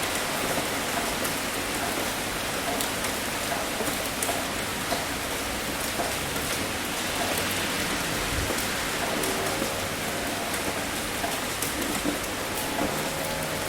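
Heavy rain falling steadily, a dense even hiss with sharp clicks of single drops hitting a surface scattered through it.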